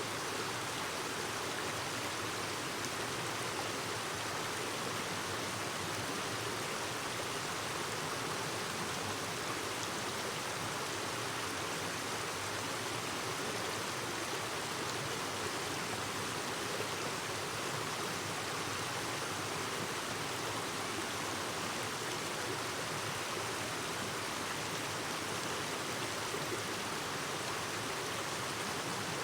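A clear mountain stream flowing over rocks, a steady babbling rush of water.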